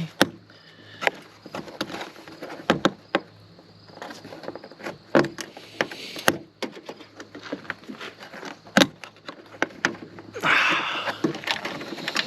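Irregular clicks and knocks of plastic car parts being handled and pried loose, with a short scraping rustle about ten and a half seconds in.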